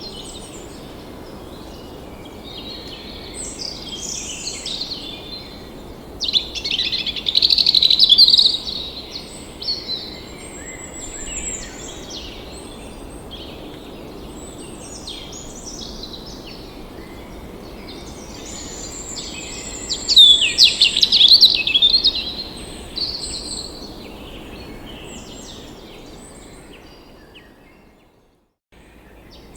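Several wild birds singing and calling, in rapid chirping phrases over a steady low background hiss. The loudest bursts of song come about seven and twenty seconds in. Near the end the sound fades out briefly, then cuts back in.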